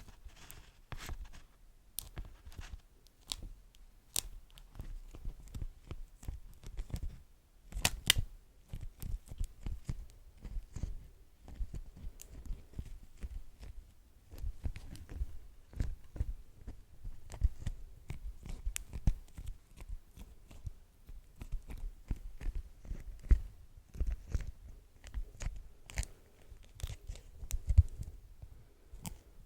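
Beeswax wrap crinkled and handled close to the microphone: dense, irregular crackles with soft low thumps throughout.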